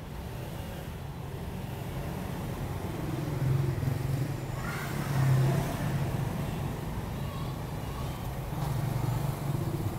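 Motor vehicle engine noise: a steady low hum that swells about three times.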